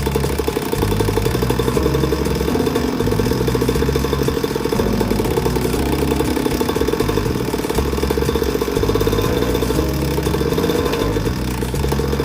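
Pocket bike's small single-cylinder engine running steadily at idle.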